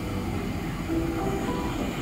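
A train running, a steady rumble.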